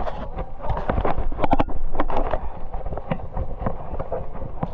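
Wind and handling noise rumbling on a body-worn camera microphone, with irregular knocks and rustles.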